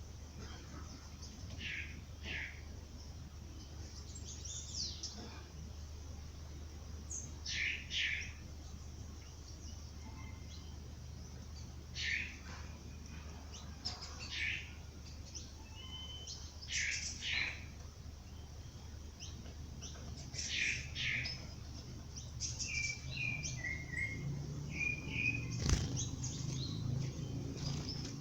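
Several birds chirping and calling at dawn, short calls every few seconds over a low steady hum, with a sharp click near the end.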